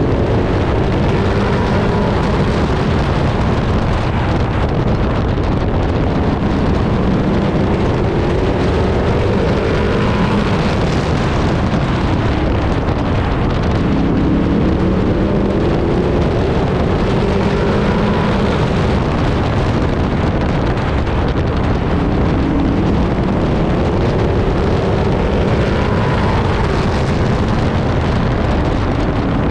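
Race truck's engine heard from an onboard camera at race speed, its pitch rising and falling every few seconds as the throttle opens and lifts, under steady wind noise on the microphone.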